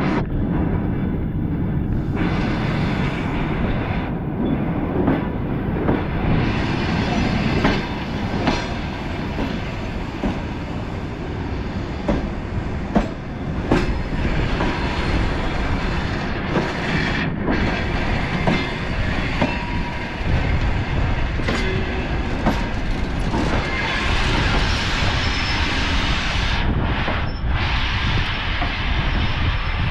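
A Russian Railways passenger train rolling along the track, heard from inside the carriage: a steady low rumble with repeated clicks of the wheels over rail joints, the clickety-clack of a moving train.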